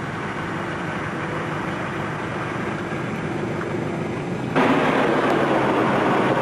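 Car running along, heard from inside: a steady engine and road drone. About four and a half seconds in, the rushing noise abruptly gets louder and brighter and stays up.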